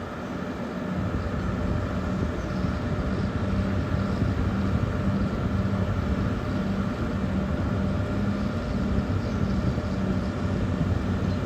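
Diesel engine of heavy earthmoving equipment running under load, its low hum swelling over the first second or two and then holding steady.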